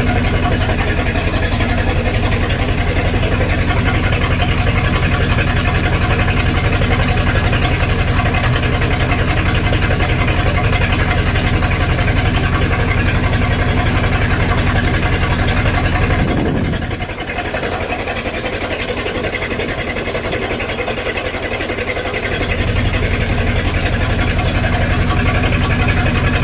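Engine of a 1999 Formula 232 boat running with a misfire. About two-thirds of the way through it drops lower and quieter for several seconds, then picks back up. The misfire comes from a 496 cam fitted to the motor, which needs a different firing order.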